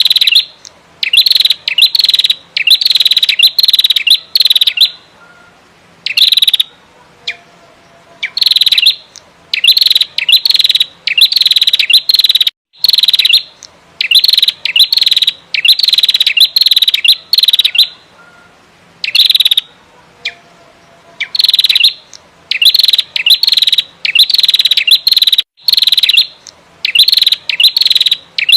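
Female prenjak merah calling non-stop: loud, rapid, buzzy bursts of calls, each a fraction of a second long, repeated in quick runs with brief pauses between.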